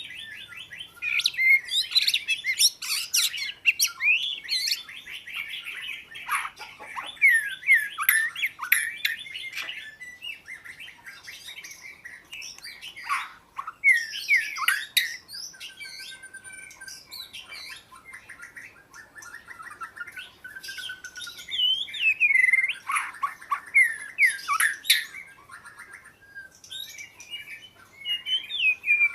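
Oriental magpie-robin singing: a varied run of clear whistles, quick downward-sweeping notes and chattery phrases, coming in bursts with short pauses.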